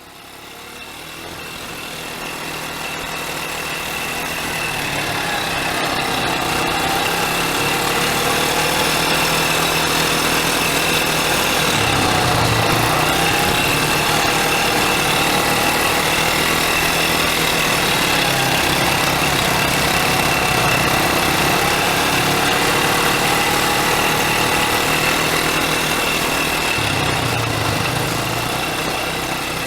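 Quad bike engine running steadily, fading in over the first few seconds.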